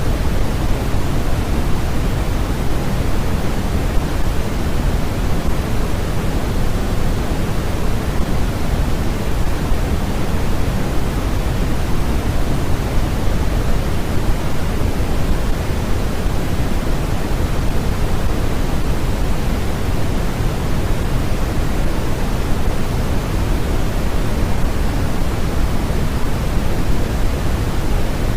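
Steady, unchanging generated noise of a white-noise sleep track, fuller in the lows than in the highs, like pink noise.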